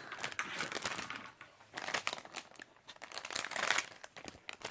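Plastic blind-bag packaging crinkling and crackling in irregular bursts as it is pulled and torn open by hand and teeth.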